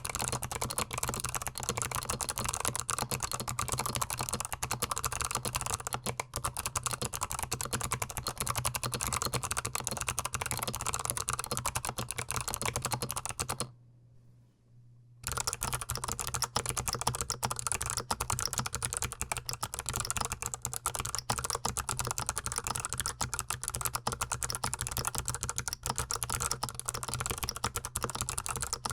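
Fast, continuous typing on a GMMK Pro mechanical keyboard, close-miked, in dense rapid key clicks. The typing stops for about a second and a half about halfway through, then resumes.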